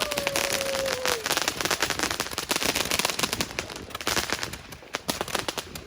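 Fireworks going off in a rapid, dense run of crackling pops, which thin out and grow quieter about four and a half seconds in.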